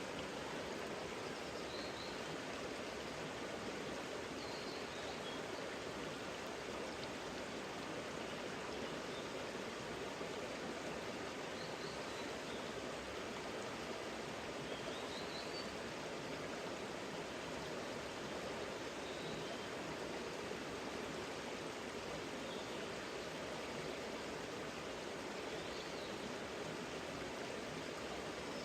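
Mountain stream flowing steadily, with a bird's faint, short, high chirps several times.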